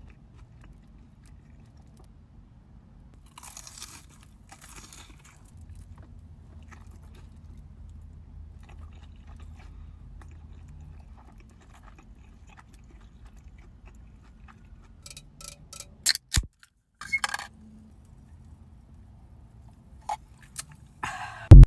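Chewing and crunchy bites into a fried Korean corn dog, with crisp crackling crunches in the last third and the loudest bite just before the end.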